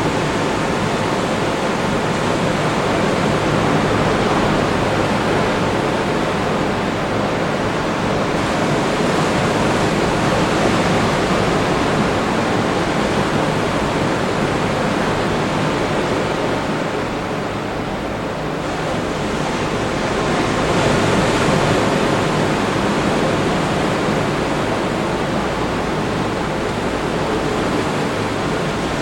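Atlantic Ocean surf breaking on the beach, a steady wash of waves. It eases a little about two-thirds of the way through, then swells again.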